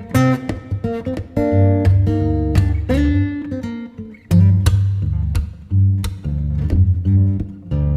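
Acoustic guitar music: plucked and strummed notes over a steady bass line.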